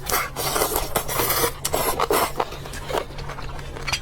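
Close-miked eating sounds: crunching and chewing in irregular bursts with small clicks, over a steady low hum.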